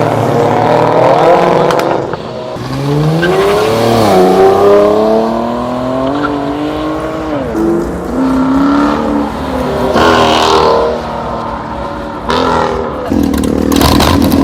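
Car engines revving hard and accelerating away, the pitch climbing and falling. The longest pull climbs steadily for several seconds and drops sharply about seven seconds in, like a gear change. Shorter, louder surges follow near the end.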